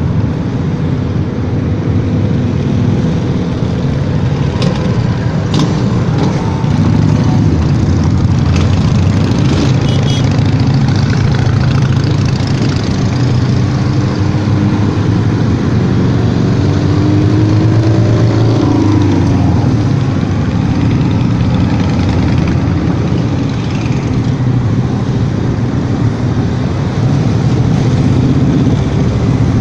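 Motorcycle engine running steadily on the move, with road and wind noise throughout, and a few brief rising and falling engine notes about halfway through.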